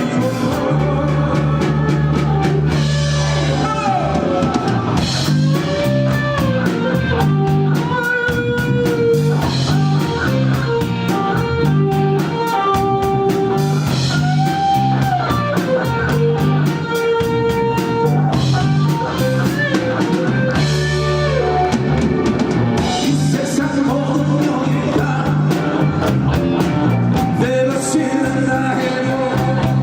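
Live band playing a rock song on drum kit and guitar, with a melody line gliding over steady low bass notes.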